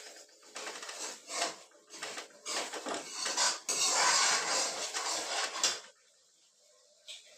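Metal kitchen utensils clattering and scraping against a pot, in quick irregular knocks that thicken into continuous scraping, stopping about six seconds in.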